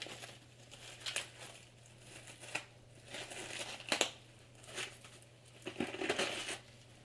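Crisp crunching and crinkling of iceberg lettuce leaves being torn and broken apart by hand, with a few sharp snaps.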